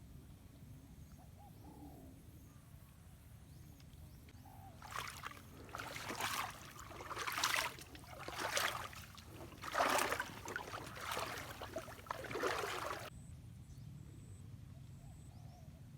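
Water splashing in a run of seven or so uneven strokes, roughly one a second, starting about five seconds in and stopping abruptly near thirteen seconds, over a low steady rumble.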